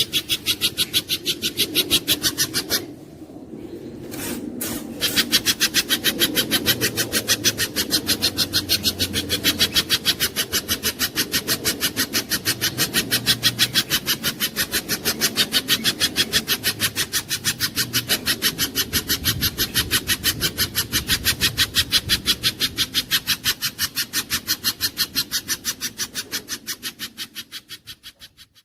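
A bird calls in a fast, even run of harsh rasping notes over a low rumble. It breaks off for about two seconds near the start, then carries on and fades out at the end.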